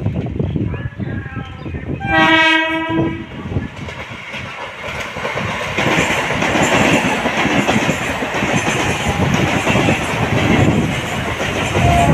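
Indian Railways EMU local train: its horn sounds once for about a second, some two seconds in. From about six seconds in the train runs past close by, its wheels clattering over the rails with a steady rushing noise.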